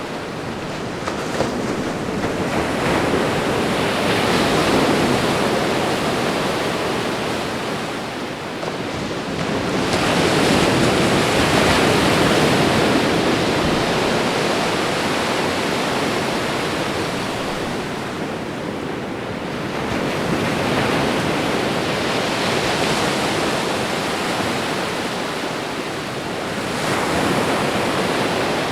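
Ocean waves washing onto a shore: a steady surf hiss that swells and fades in four slow surges.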